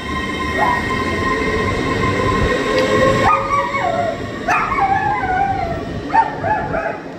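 Hull Trains Class 802 bi-mode train moving away along the platform: a steady rumble of wheels under a humming traction whine. About three seconds in, short high cries that fall in pitch begin and come back several times.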